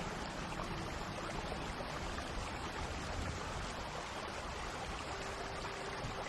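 Steady, even rushing of heavy rain, with faint held notes of soft ambient music underneath.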